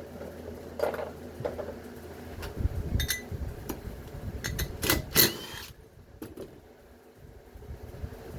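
Scattered metal clinks and knocks of tools and steel parts being handled while stripping a washing machine motor assembly, the loudest pair about five seconds in. A low steady hum underlies the first couple of seconds.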